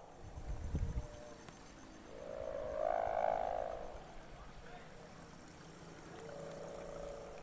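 Sanderan kite hummer on a large flying kite droning in the wind, swelling louder about two seconds in and again near the end. A low rumble comes near the start.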